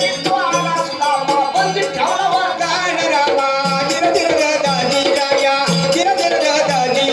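Marathi kalgi shahiri folk music: a wavering melody over a steady drone, with a low drum beat about once a second and continuous rattling percussion.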